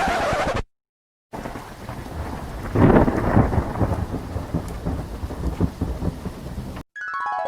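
Thunderstorm sound effect: steady heavy rain with a rumble of thunder that swells about three seconds in, cutting off suddenly near the end. It is preceded by a brief half-second burst of noise and a moment of silence.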